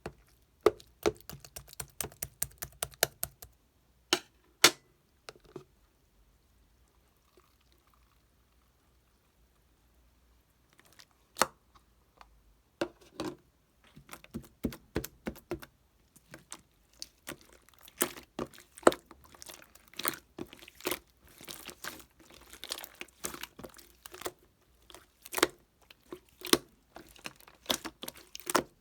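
Quick taps and clicks of small objects being handled, in dense clusters, with a few seconds of near quiet in the middle.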